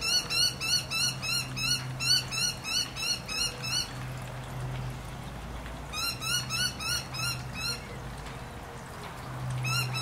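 A bird calling a rapid series of short, rising chirps, about three a second, in two runs separated by a pause of about two seconds.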